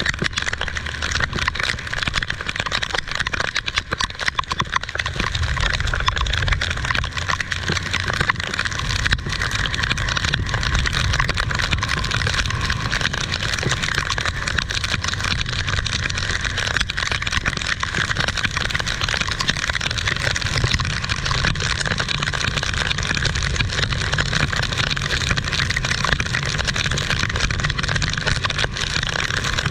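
Heavy rain falling steadily: a dense hiss with fine patter, over a low rumble that grows stronger about five seconds in.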